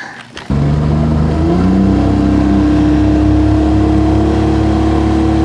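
A motor engine running loudly and steadily, its pitch stepping up about a second in as it speeds up, then holding.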